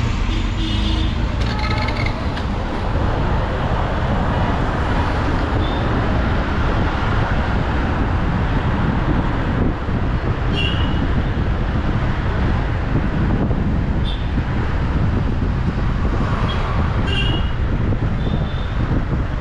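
A car driving along a road: steady rumble of road and engine noise, with a few short high chirps about ten, fourteen and seventeen seconds in.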